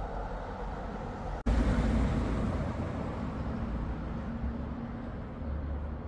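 A train running at a station, a steady engine rumble. About a second and a half in the sound breaks off abruptly and comes back louder, with a steady low engine tone that fades toward the end.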